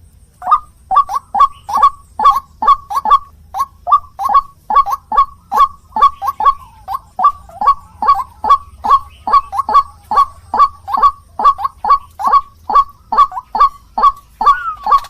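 White-breasted waterhen (ruak-ruak) giving its repeated call: a long, even series of short notes, each dropping in pitch, about two to three a second.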